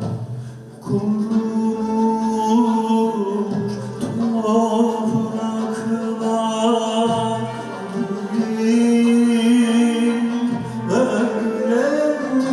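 Turkish art music ensemble playing a slow melody in long, held, gently wavering notes over string accompaniment.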